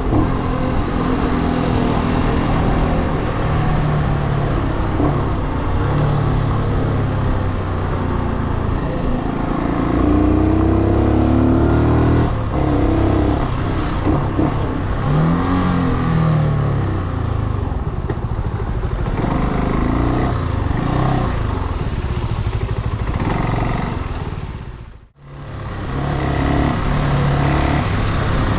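Brixton Cromwell 250's single-cylinder air-cooled engine running on the move, its revs rising and falling through acceleration and gear changes. The sound cuts out briefly near the end.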